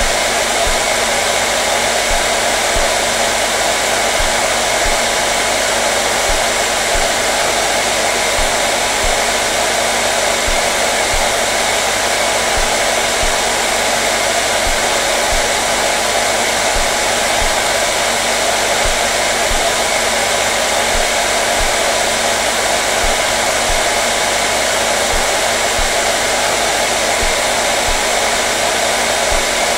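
Hair dryer running continuously at a constant speed: a steady, unchanging whoosh of blown air with a low motor hum underneath.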